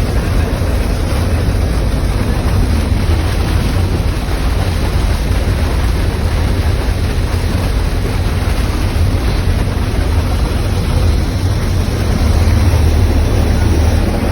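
A machine's engine running steadily with a low rumble and a noisy hiss above it.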